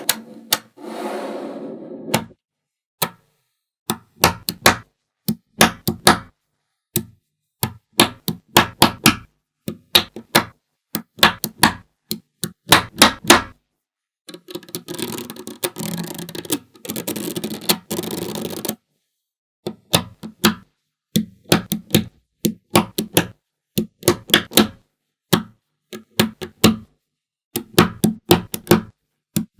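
Small magnetic balls clicking and snapping together in quick clusters of sharp clicks, with gaps between. About halfway through, a few seconds of continuous rattling as the balls clatter against each other.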